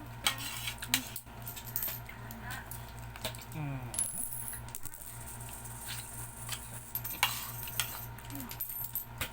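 Spoons and utensils clinking against bowls and plates while people eat: a scattered series of light, sharp clinks.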